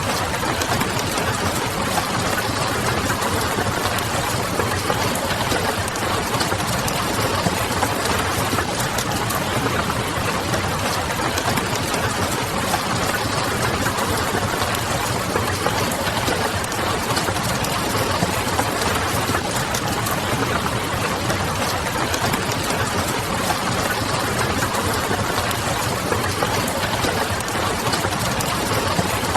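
Steady rain mixed with a crackling wood fire: a dense, even hiss and patter full of small crackles, with a low hum beneath.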